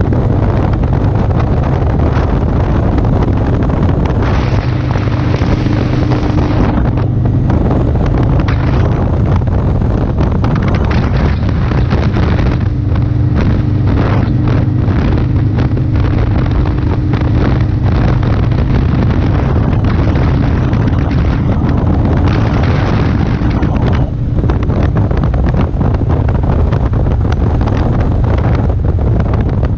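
Motorcycle engine running steadily at road speed, with heavy wind buffeting the microphone.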